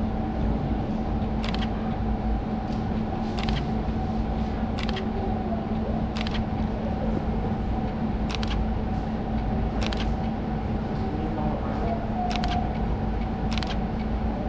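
Camera shutter clicks, about nine short sharp clicks at uneven intervals, over a steady low machine hum with a constant tone.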